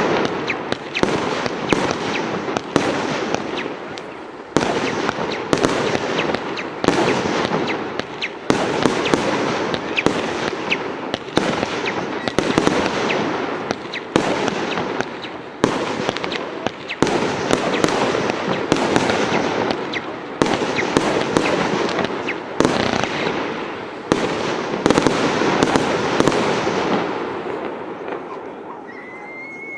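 Fireworks battery firing a long, rapid string of sharp bangs with crackle and hiss between them, thinning out and dying away in the last couple of seconds.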